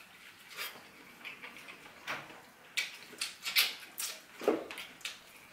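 Close-up chewing and mouth sounds of a person eating: irregular clicks and smacks, louder in the second half.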